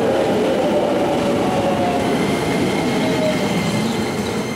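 Keisei 3000 series electric commuter train rolling past along the platform as it pulls out, its wheels and motors running with a faint whine that slowly rises in pitch. The sound begins to fade near the end as the train moves away.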